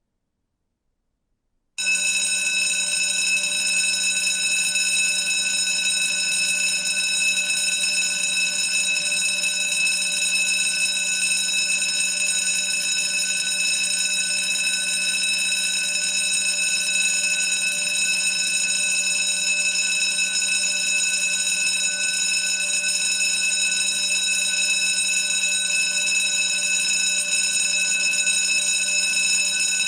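Electric bell ringing continuously, its clapper hammering the gong so fast that it makes one steady metallic clangour. It starts suddenly about two seconds in and does not change.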